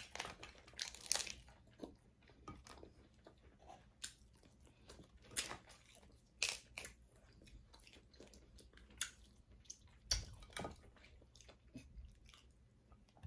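A person eating seafood boil close to the microphone: quiet chewing and lip smacking, with scattered sharp clicks and crackles at irregular intervals.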